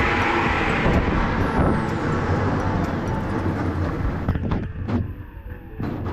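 Mini tourist train running, a steady low rumble, with a few sharp clicks and knocks in the last two seconds as the rumble eases.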